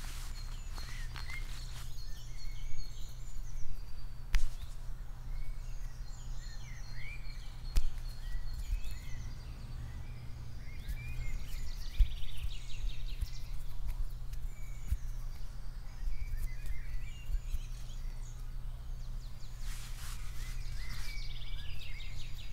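Outdoor ambience: small birds chirping and twittering over a steady low rumble, with a few sharp knocks or taps scattered through.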